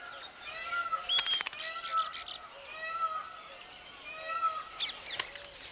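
Weaver birds calling: a short arched call repeated about once a second, with higher chirps over it and a few sharp clicks about a second in.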